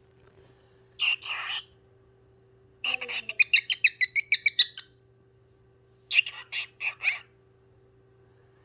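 Pet parrot calling and chirping in three bouts: two short harsh calls about a second in, a rapid run of about eight high chirps a second lasting two seconds, then a shorter run of chirps near the end.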